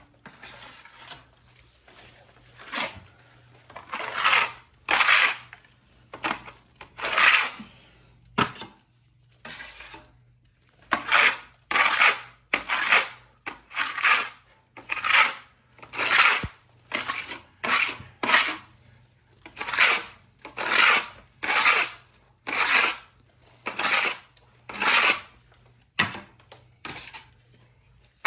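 Steel trowel scraping setting-type joint compound (hot mud) across a plaster wall in repeated strokes. The strokes are sparse and fainter for the first ten seconds or so, then settle into a steady rhythm of about one a second.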